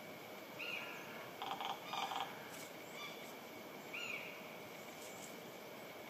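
A few bird calls over a steady outdoor hiss: a short arching note about half a second in and again about four seconds in, with two quick stuttering, rattly calls around the two-second mark.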